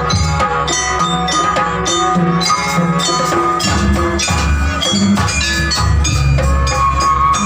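Gamelan ensemble playing Janger accompaniment: quick, dense strikes on metallophones and bells ringing over a drum beat.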